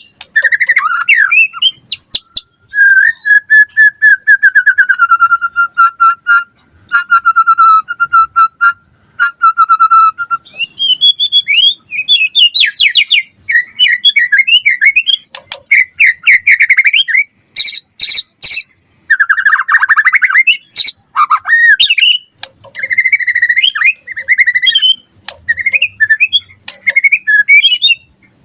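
White-rumped shama singing a long, varied song of rippling whistled trills, fast chattering phrases and sharp clicks, with brief pauses between phrases.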